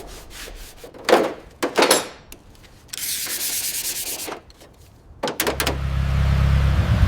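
A few rubbing strokes of sanding on the car body, then a hiss lasting about a second and a half. Near the end comes a few clicks, and then a steady low rumble sets in, like a car engine starting to run.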